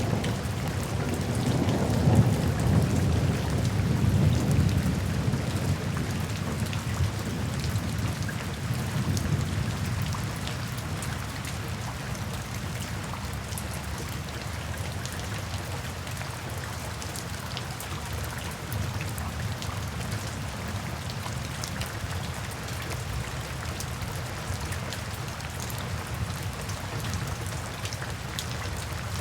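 Steady rain falling, with a low roll of thunder through the first ten seconds or so that then fades away. Scattered sharp ticks run through the rain.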